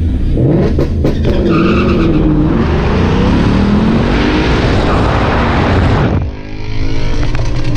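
2016 Ford Mustang GT's 5.0-litre V8, breathing through a Roush exhaust and H-pipe, at full throttle on a drag-strip launch: the engine note climbs in pitch and falls back at each upshift. About six seconds in the sound drops off abruptly to a lower, steadier running note.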